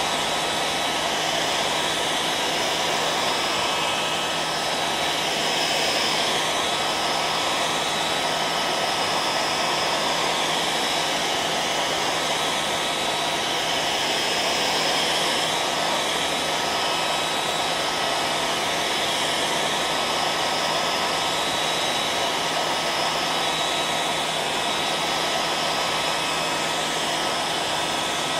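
Hairdryer running steadily, a continuous rushing of air with a faint steady motor hum and whine.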